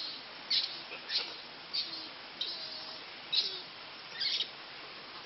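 A small bird chirping: about seven short, high calls repeated every half second to second, stopping shortly before the end.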